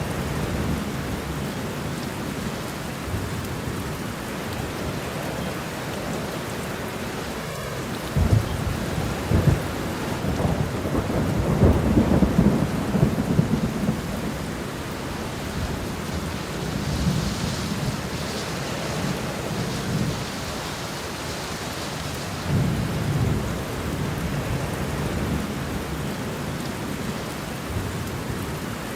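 Steady rain falling, with thunder rumbling low beneath it: a long roll swelling about eight seconds in and easing by fourteen seconds, and a shorter one a little past twenty seconds.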